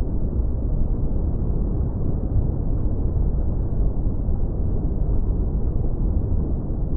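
Beach ambience of ocean surf: a steady, deep, muffled rush with no separate wave crashes or other events standing out.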